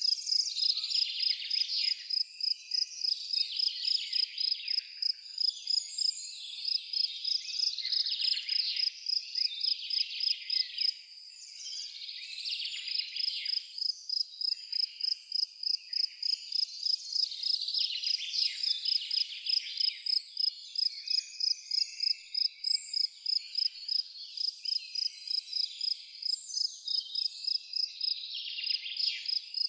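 Natural ambience of an insect chirping in a steady high pulse, about three chirps a second, pausing briefly about a third of the way through, with birds calling over it.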